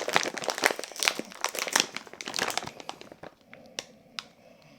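Plastic crisp packet crinkling as it is handled and opened. The dense crackling thins out after about three seconds to a few single crackles.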